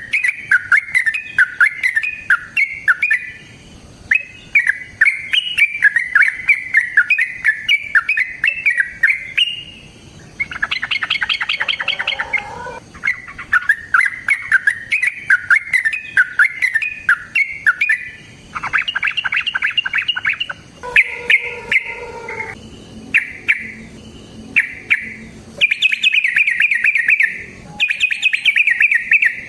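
Yellow-vented bulbul (trucukan) singing a long, rapid chattering song: quick runs of high-pitched notes in phrases a few seconds long, separated by brief pauses.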